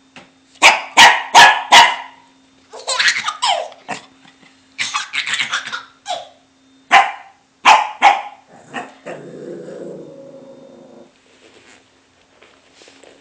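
Puppy barking: a quick run of four loud barks about a second in, then more barks in bunches, followed by a lower, rougher sound lasting about two seconds.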